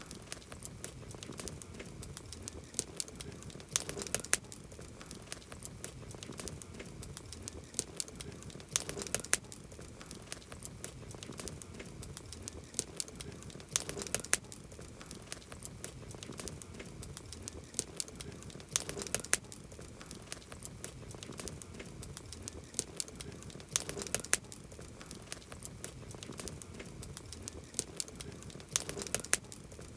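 Campfire burning wood: a steady stream of small crackles and sharp pops over a low hiss, with a louder burst of pops about every five seconds.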